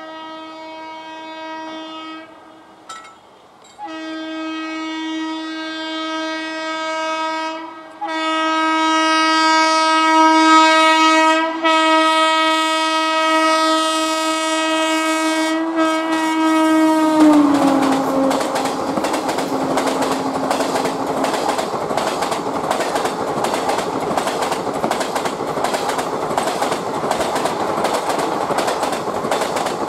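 Indian Railways electric locomotive's horn sounding in long blasts as an express train approaches, dropping in pitch about seventeen seconds in as the locomotive passes. Then the passenger coaches roll by with a loud, rhythmic clickety-clack of wheels over the rail joints.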